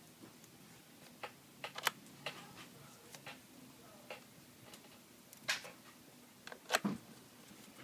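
Irregular light clicks and taps of small screws and a screwdriver on a laptop's aluminium case during reassembly, with a few sharper knocks about two seconds in, in the middle and near the end.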